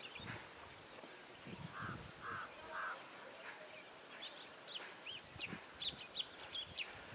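Wild birds calling in scrub forest: three short, evenly repeated notes about half a second apart, then a run of quick high chirps from about four seconds in, over a faint steady high hiss.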